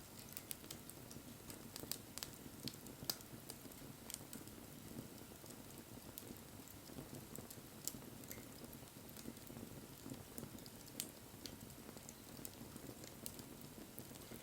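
Wood bonfire crackling: irregular sharp snaps and pops, a few louder than the rest, over a low steady rustle of the flames.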